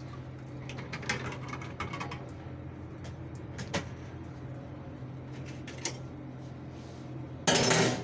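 Fagor FI-80 dishwasher running with a steady low hum, with scattered clicks and knocks and a loud rushing burst near the end.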